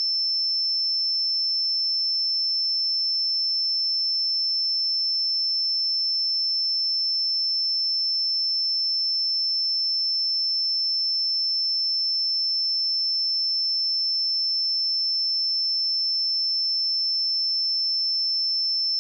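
A pure 5314 Hz sine-wave test tone, one steady high-pitched note held at a constant level.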